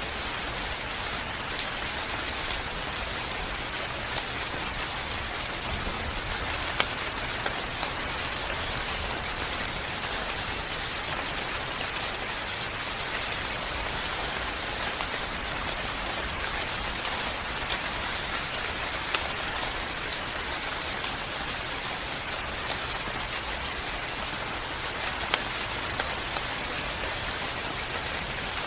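Steady, even rainfall, with now and then a single louder drop striking close by.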